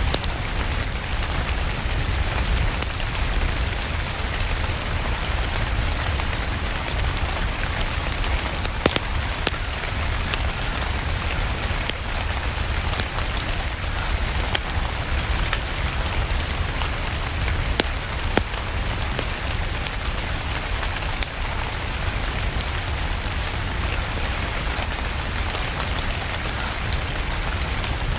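Steady rain falling, with the scattered sharp crackles and pops of a wood fire in a fireplace.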